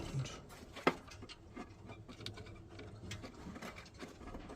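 Small clicks and light taps of hand tools and metal boiler parts being handled while a burner assembly is taken apart, with one sharper click about a second in.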